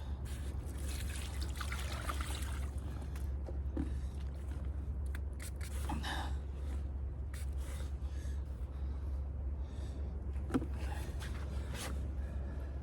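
Breathing and scattered water splashes and drips as a hooked carp is brought in, with handling rustles over a steady low hum.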